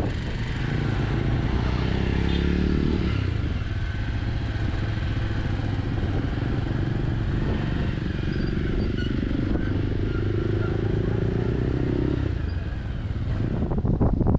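Bajaj Avenger 160 Street's single-cylinder engine running steadily as the motorcycle is ridden. Wind buffeting on the microphone picks up near the end.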